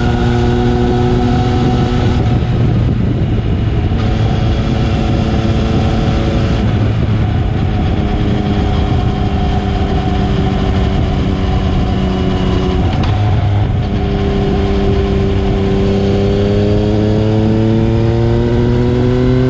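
Yamaha MT-09's three-cylinder engine running through an Akrapovic carbon full exhaust while riding. It holds a fairly steady note with a few brief changes, then its pitch climbs steadily over the last few seconds as it accelerates.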